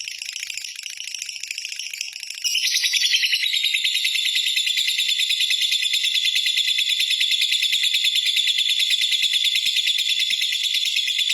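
Lovebird's long unbroken chattering song (ngekek panjang), a very fast, high, rattling trill. It gets louder about two and a half seconds in and then holds steady.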